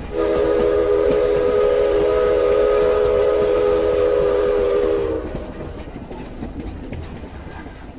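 A train whistle sounding one long held chord of several notes, which cuts off about five seconds in, over the rumble of the running train, which then fades away.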